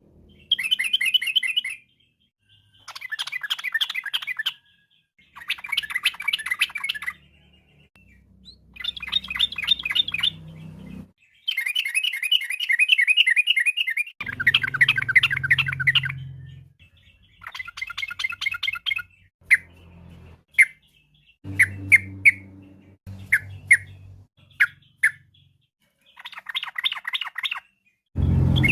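Yellow-vented bulbul (trucukan) song: phrases of rapid, bubbling chattering notes, each one to two seconds long, repeated with short silent gaps between them. Toward the end come several short single call notes.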